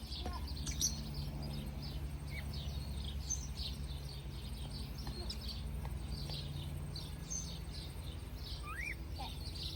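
Faint bird chirping: many quick, high chirps throughout, with a single rising call near the end, over a low steady hum.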